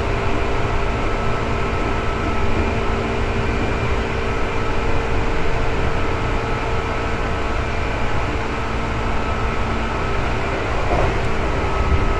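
Interior running sound of a Seibu 2000 series electric train: a steady low rumble with a constant hum of several fixed tones, no speeding up or slowing down.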